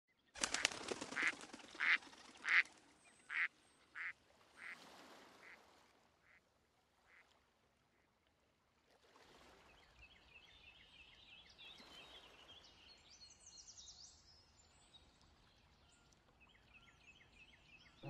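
A duck quacking in a run of about ten calls, each softer than the last, dying away about seven seconds in. Then a faint steady wash of lapping water with small birds singing high chirps over it.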